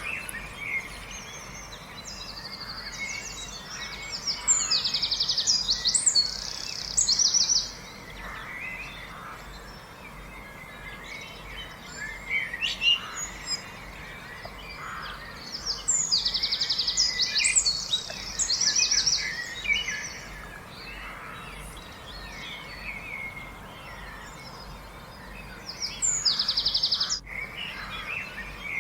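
Wild birds singing: three loud, fast trilling song phrases, about ten to twelve seconds apart, with softer chirps and calls between them.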